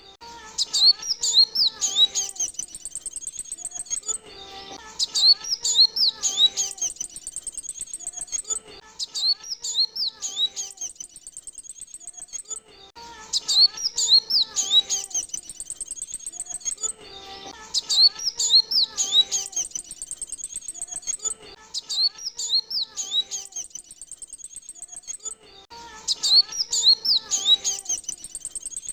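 Male Kolibri Wulung (sunbird) song: repeated bouts of fast, high chirps and twitters, each about two to three seconds long, coming about every four seconds with short pauses. It is a lure call used to attract wild kowul.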